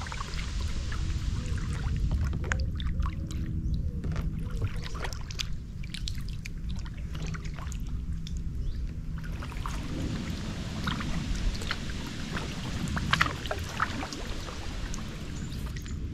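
Kayak paddle strokes splashing and dripping in the water, at irregular intervals, over a steady low rumble of moving water.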